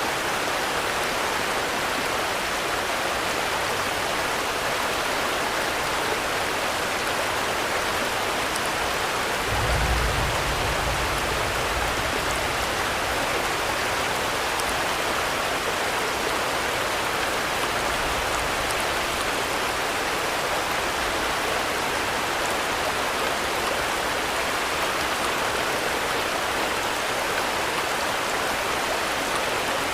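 Steady rain falling, an even hiss with no let-up. A brief low rumble comes about ten seconds in, and a fainter one near eighteen seconds.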